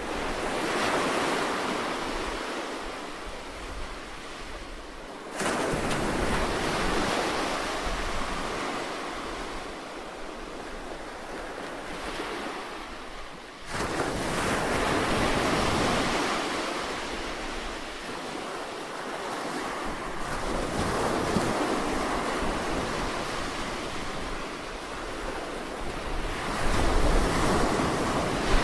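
Sea surf washing ashore: a continuous rush of water that swells and fades every several seconds, with sudden surges about five and fourteen seconds in.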